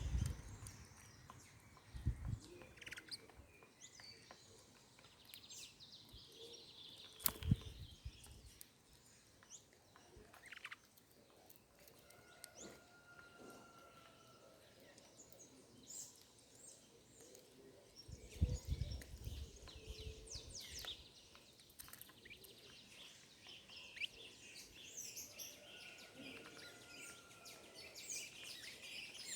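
Small wild birds chirping and calling, many short high chirps overlapping, with a longer steady whistled note twice. A few dull low thumps are scattered through.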